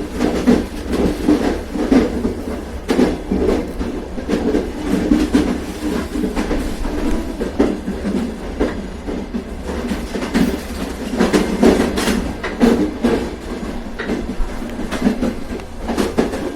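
Train running along the track: a steady rumble with irregular clickety-clack of the wheels over the rail joints.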